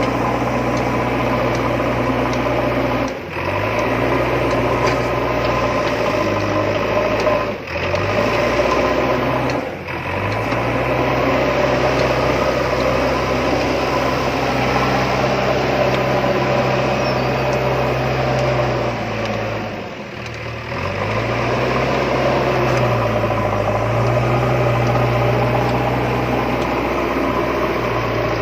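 Engine hum of a toy tractor or digger running steadily. It cuts out briefly four times, about three, seven and a half, ten and twenty seconds in, and each time the pitch rises as it starts up again.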